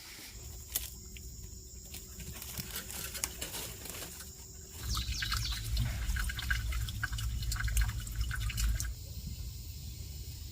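Liquid dripping and pouring, with scattered small clicks. A louder low rumble comes in about halfway through and stops shortly before the end.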